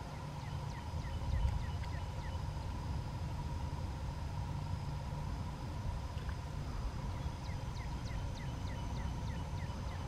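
Steady low rumble with a faint steady hum, and a small bird giving two runs of about eight quick, falling chirps: one in the first couple of seconds, another starting about seven seconds in.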